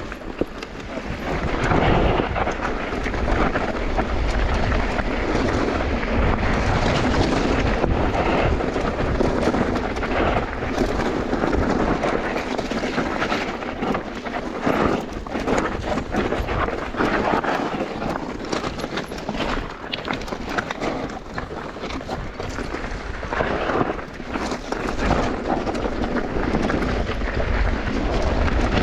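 Mountain bike rolling down a bike-park trail: steady tyre noise on dirt with frequent clatters and knocks from the bike over bumps, and a low rumble of wind buffeting the microphone.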